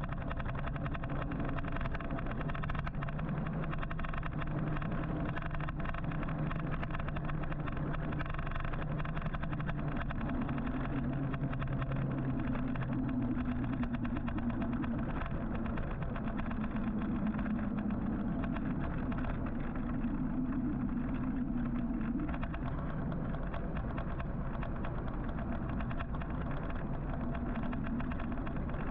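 Steady road traffic noise heard from a moving electric motorcycle, with the hum of nearby vehicles' engines shifting up and down in pitch.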